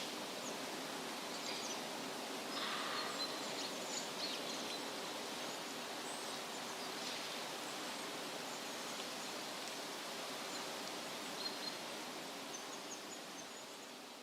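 Outdoor nature ambience: a steady rushing hiss with faint, brief high bird chirps scattered through it. The whole sound begins to fade out near the end.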